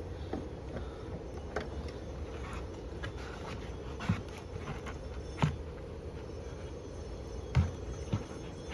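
A few sharp knocks and clunks from handling the mower, over a steady low hum, the two loudest about five and a half and seven and a half seconds in.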